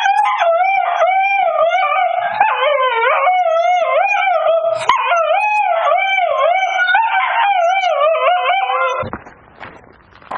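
A dog howling loudly and without a break, its pitch wavering up and down over and over, stopping suddenly about nine seconds in.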